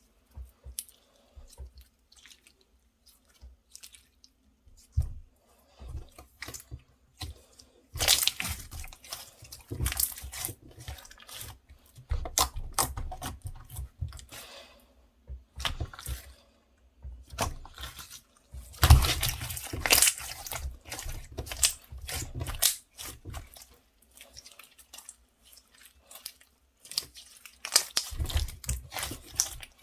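Slime being squished and kneaded by hand, with irregular wet clicks, pops and crackles. The sound grows busier and louder in spells about a third of the way in, about two-thirds in, and near the end.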